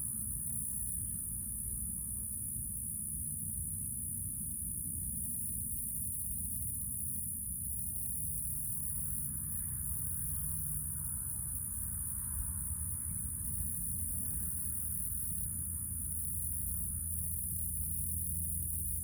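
Honey bees and yellow jacket wasps buzzing at a beehive entrance: a steady low hum whose pitch wavers, over a continuous high-pitched insect trill.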